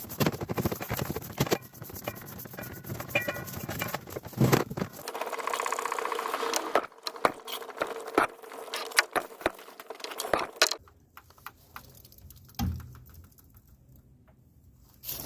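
Pressure-washer hose reel being turned to unreel and rewind the hose and drain it for winter, with a run of clicks and rattles. About five seconds in there is a brief whine. After that the clicks thin out and grow quieter near the end.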